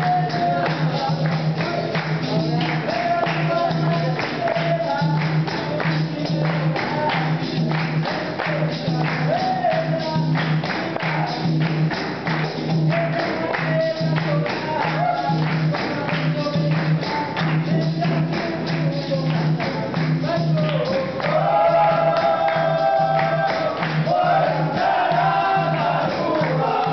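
Capoeira roda music: a lead voice singing over fast percussion with pandeiro jingles and a repeating low pulse. A group of voices joins in chorus near the end.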